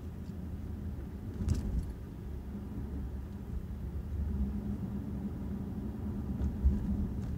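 Steady low rumble of a running vehicle, with a brief rattle about a second and a half in and a knock near the end.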